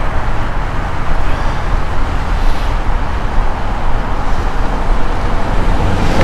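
Wind rushing and rumbling over the action camera's microphone as the bike coasts downhill, over a steady wash of road traffic.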